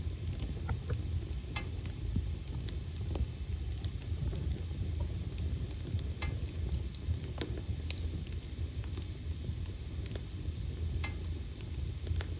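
Wood logs burning in a fireplace: a steady low rumble of flame with irregular sharp crackles and pops, roughly one a second.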